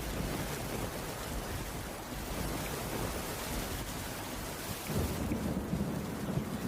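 Steady heavy rain on a wooden cabin roof, with a low rumble under it that swells about five seconds in.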